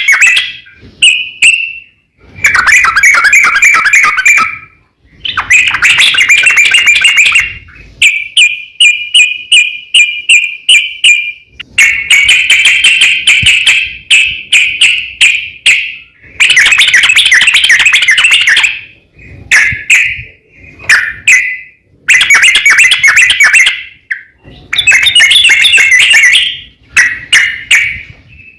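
Yellow-vented bulbul (trucukan) singing loudly in a run of rapid, bubbling chattering phrases, each two to three seconds long, with short breaks between.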